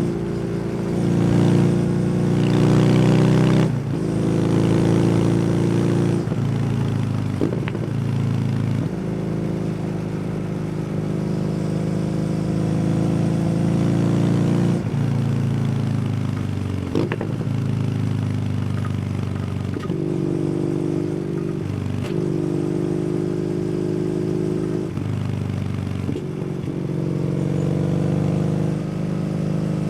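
Kawasaki W800's air-cooled parallel-twin engine through an SC Project exhaust, on the move: the exhaust note climbs and falls with the throttle. It breaks off sharply several times as the rider shifts gear or rolls off.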